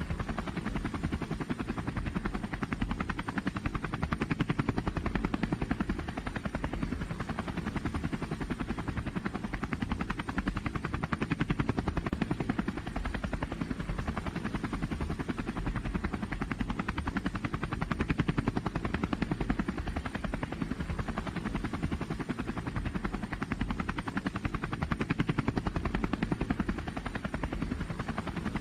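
Engine of a pulling vehicle running hard under load, a loud steady pulsing drone that swells slightly now and then.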